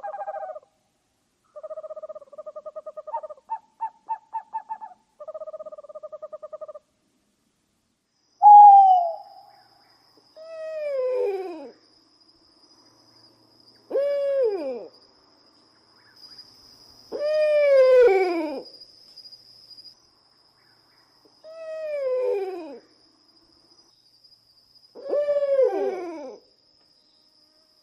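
Owl calling. It opens with three bursts of quick pulsed tones, then gives six drawn-out calls a few seconds apart, each sliding down in pitch. A faint steady high tone sounds behind the later calls.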